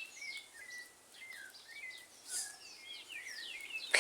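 Several wild birds chirping and whistling outdoors in quick, sliding notes, one after another. A brief hiss comes a little past halfway, and a sharp knock right at the end.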